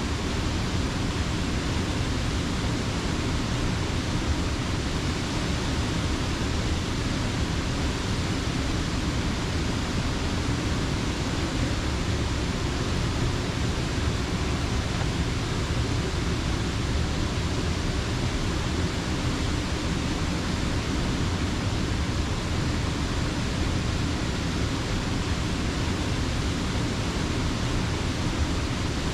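Creek water rushing steadily, an even unbroken rush with no other events.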